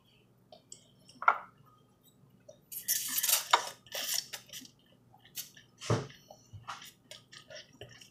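A utensil clicking and scraping against a bowl of noodles, with a sharp clink about a second in and another near six seconds. Wet, noisy eating sounds come through around the middle as the noodles are taken in.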